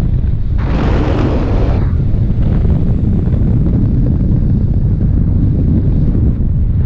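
Wind buffeting the microphone during paraglider flight: a steady low rumble, with a stronger, hissier gust about a second in.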